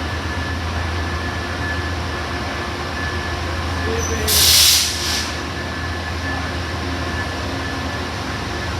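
Amtrak Coast Starlight passenger cars rolling past with a steady rumble and a faint steady high tone, with a short burst of hiss about four and a half seconds in.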